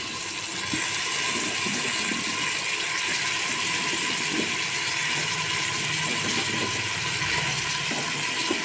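Tomatoes and vegetables sizzling steadily in hot oil in a pressure cooker, with now and then a soft knock as cut vegetable pieces drop in.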